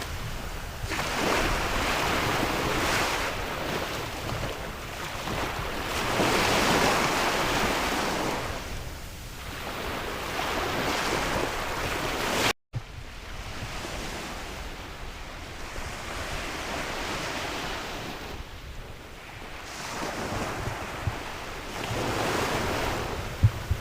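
Sea waves surging and breaking, swelling and ebbing every few seconds, with wind blowing. The sound drops out for a split second about halfway through, after which it is slightly softer.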